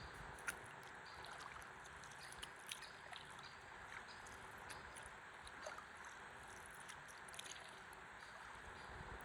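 Faint river water lapping and trickling around a stand-up paddleboard, with small scattered drips and splashes, the sharpest about half a second in.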